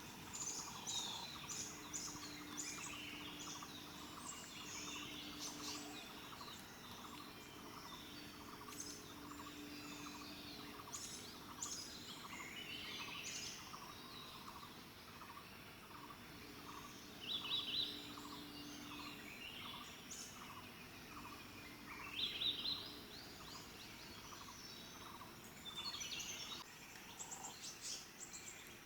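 Wild birds calling and chirping throughout, with several short, loud bursts of chirps about halfway through and again a little later. Underneath runs an even ticking pulse of about two a second, with a low hum that comes and goes.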